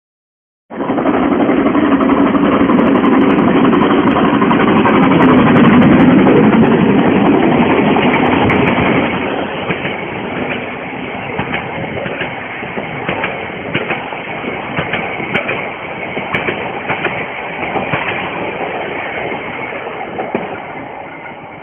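Harz narrow-gauge steam train running: a loud rushing train noise for the first nine seconds or so, then quieter running with irregular clicks and rail clatter, fading near the end.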